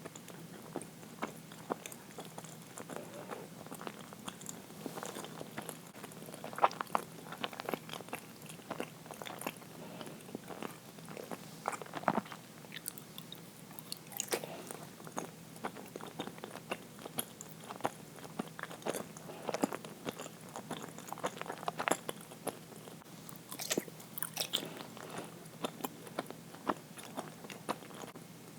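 A person chewing uiro, soft sweet rice jelly, close to the microphone: a steady run of irregular short mouth clicks and smacks.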